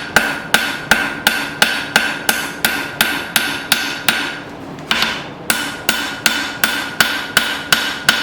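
Hand-forging: a hammer striking hot file steel on the anvil, about three blows a second, each blow ringing. The blows break off briefly a little past halfway, then start again.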